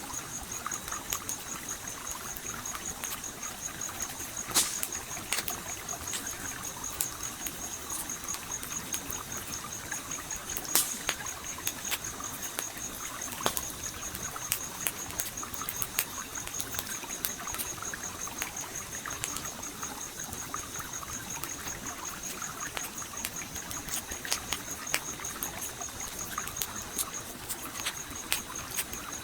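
Campfire crackling with scattered sharp pops over a steady trickling stream. A high, fast-pulsing trill runs under it and breaks off briefly near the end.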